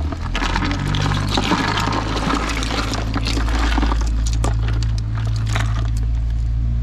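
Water splashing and pouring with scattered clicks and knocks, over a steady low hum.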